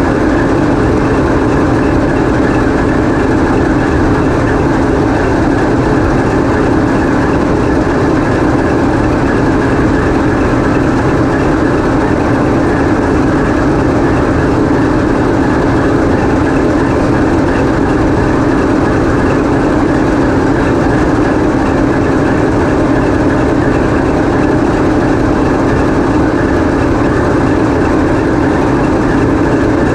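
The 16-cylinder diesel engine of a TEP70 passenger locomotive running steadily, heard loud and close inside the engine room, a constant heavy mechanical din.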